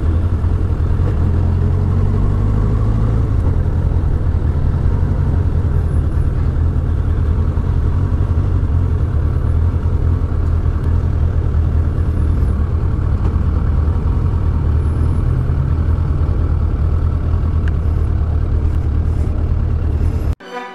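Motorcycle engine running steadily at low speed as the bike rolls along, heard from the rider's helmet. It cuts off suddenly near the end.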